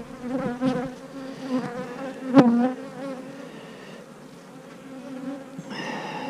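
Many honeybees buzzing around an open hive, a steady hum that swells briefly near the end as a bee comes close. A sharp click sounds about two and a half seconds in.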